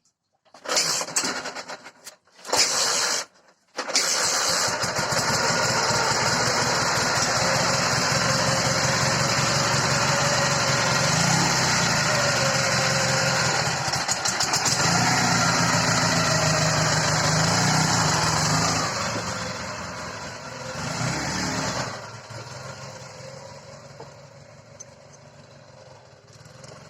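Dnepr MT-10 650 cc twin-cylinder boxer motorcycle engine being cranked in two short tries, catching about four seconds in, then running steadily. Revs rise and fall a couple of times in the middle, and the sound drops much quieter about 22 seconds in.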